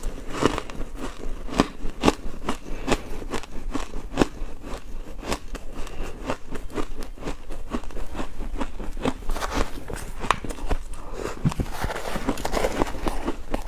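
Ice being chewed: a steady run of crunching and cracking clicks, several a second.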